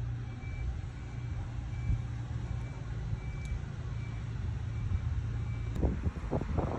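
Vehicle engine idling steadily with a low hum, a faint high beep repeating about twice a second, and a few knocks and clatters near the end.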